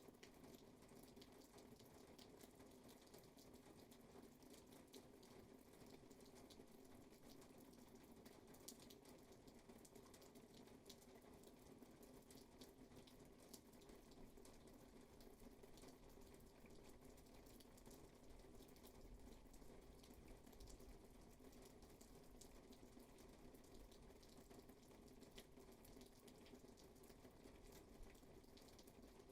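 Faint, steady rainfall: an even hiss of rain with many scattered drop ticks.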